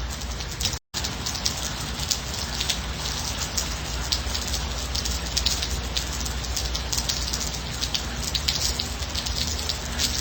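Steady rain, with many separate drops ticking on a surface over an even hiss. The sound cuts out completely for a split second about a second in.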